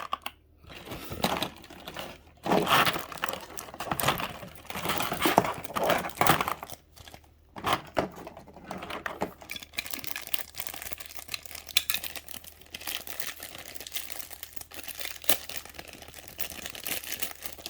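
Packaging being handled, crinkling and rustling in irregular bursts with small clicks.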